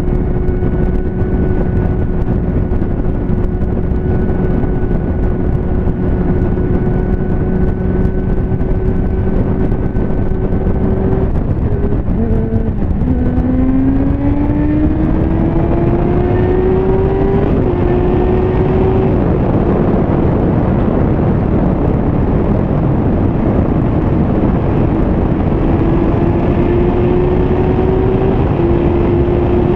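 Motorcycle engine heard on board over heavy wind rush, holding a steady cruising note. About 12 s in the revs dip, then rise steadily under acceleration and drop at a gear change a few seconds later. After that it settles back to an even cruise.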